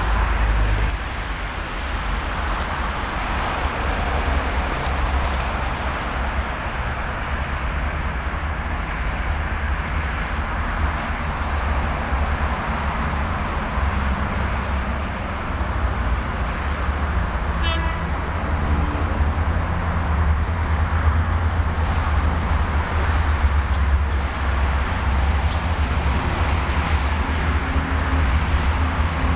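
Diesel locomotive of an approaching freight train, heard from a distance as a steady low rumble with a broad noisy wash over it, its engine drone tones growing clearer near the end.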